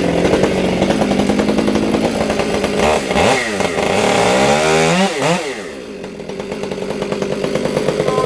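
Two-stroke chainsaw running under throttle while cutting a tree. Its engine note dips and climbs several times around the middle, eases off a little after that, then builds again.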